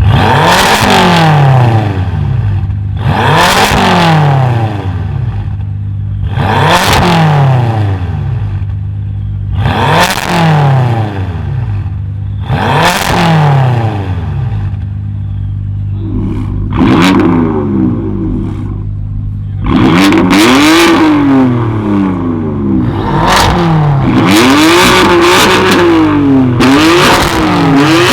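A tuned car's engine revved hard while standing, in a series of sharp rev blips that rise and fall back. The blips come about every three seconds at first, then quicker and closer together in the second half, over a steady low idle hum.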